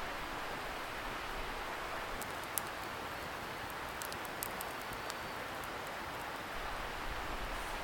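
Wood bonfire crackling, with a handful of sharp pops and snaps in the middle, over the steady noise-like hiss of a distant river.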